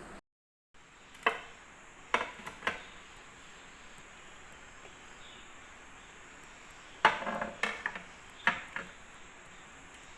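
Household objects being handled: a few sharp knocks and clatters with short ringing, in two groups about six seconds apart, over a faint steady hiss.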